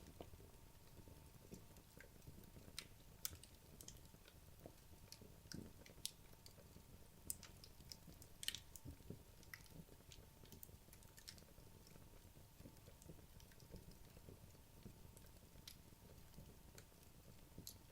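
Wood logs burning in a fireplace: faint crackling, with irregular sharp pops and snaps over a low rumble from the fire. A few pops stand out, about three seconds in and again around seven and eight and a half seconds.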